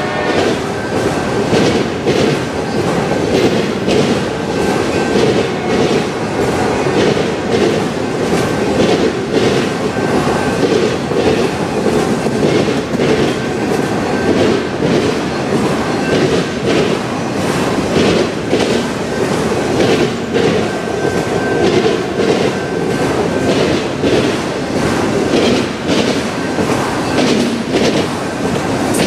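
Freight train of autorack cars and boxcars rolling steadily past: a continuous rumble of wheels with a clickety-clack of wheels over rail joints, and a thin high wheel squeal coming and going.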